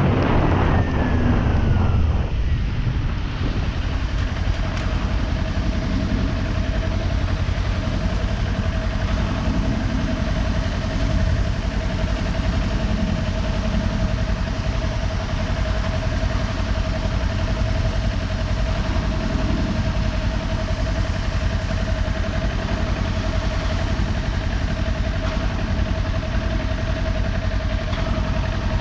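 Kawasaki Ninja 400's parallel-twin engine dropping in pitch over the first couple of seconds as the bike slows, then idling steadily. A steady thin whine joins the idle a few seconds in.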